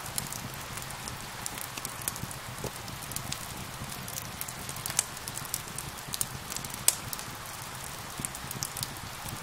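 Steady rain hiss layered with a crackling wood fire: irregular sharp pops and snaps over the rain, the loudest pop near 7 seconds in.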